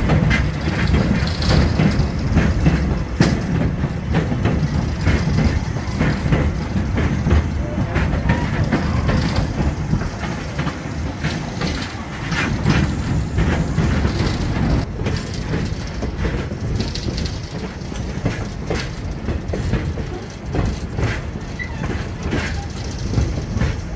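Passenger train rolling along the track, heard from an open-air car: a steady low rumble with the wheels clicking on the rails.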